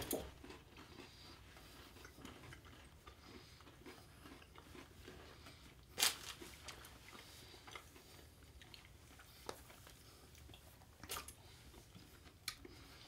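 Quiet chewing of a Hershey's Cookie Layer Crunch mint bar, dark chocolate with crunchy cookie bits, with a few short clicks scattered through.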